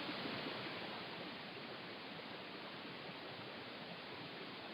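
Steady, faint hiss of background noise with no distinct events, easing slightly over the first second.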